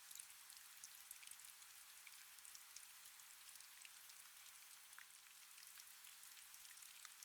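Faint, steady rain: a soft hiss with many scattered, sharp drop ticks.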